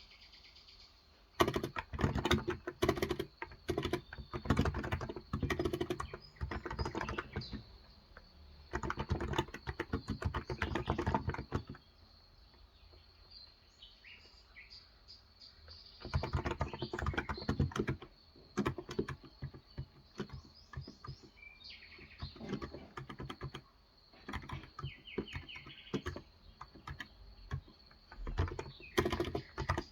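Typing on a Cox Endeavor electrostatic capacitive (non-contact) tenkeyless keyboard with 35 g switches, in quick runs of keystrokes broken by pauses of a few seconds. Birds chirp in the background, heard most in the pauses.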